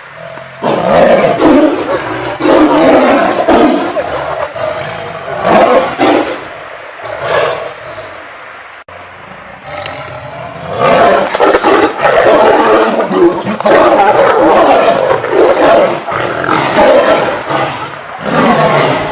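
Tiger roaring in a series of loud bouts, with a quieter lull of a few seconds midway.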